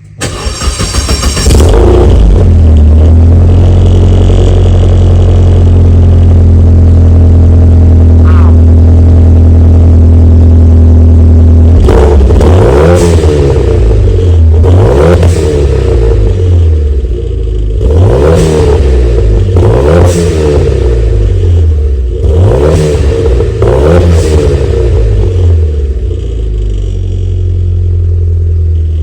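Clio's swapped-in Renaultsport Megane R26 turbocharged four-cylinder engine, heard through its new custom exhaust, starts right at the beginning and settles into a steady idle. From about twelve seconds in it is revved six times in quick blips, each rising and falling back, before it returns to idle near the end.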